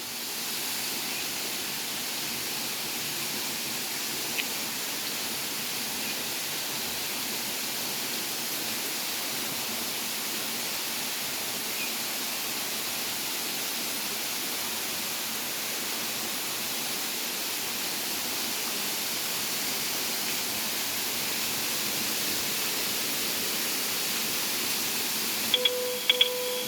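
Steady rush of a waterfall. Brief tones and short high pips come near the end.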